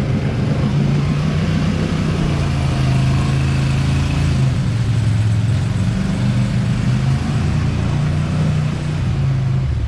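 Polaris Sportsman 850 Highlifter ATV's twin-cylinder engine running on its factory stock exhaust, holding a steady note with small changes in pitch.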